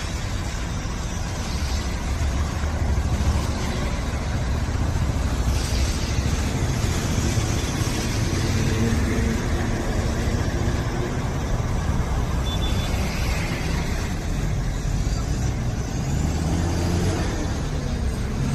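Road traffic on a waterlogged highway: engines of cars, trucks and buses running as they move slowly through standing floodwater, with a steady hiss of tyres in the water that swells now and then.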